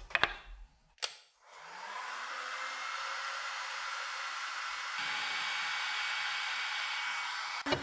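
A blower-type electric tool is switched on with a click about a second in. Its motor spins up with a rising whine, then runs with a steady, airy rushing hiss.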